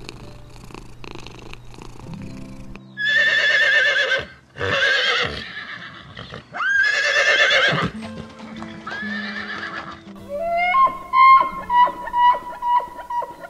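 A horse whinnying: three loud, quavering calls about a second each, then a fainter fourth. Soft background music plays under them and takes over with plucked notes near the end.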